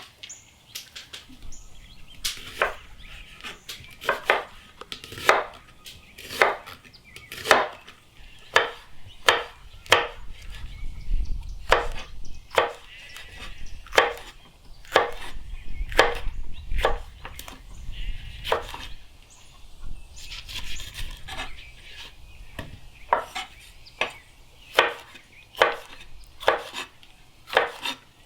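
Knife chopping on a cutting board, one sharp chop about every second.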